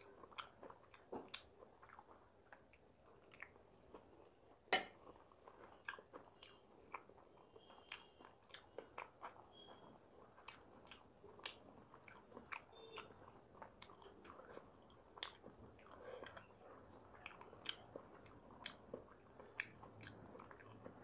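Close-up eating sounds of a person chewing and biting food, with many short, sharp clicks throughout at a low level. One click, about five seconds in, stands out as much louder than the rest.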